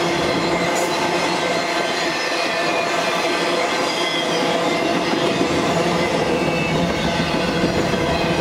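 Double-stack intermodal freight cars rolling steadily past: a continuous rumble and rattle of steel wheels on the rails, with a faint high-pitched wheel squeal running through it.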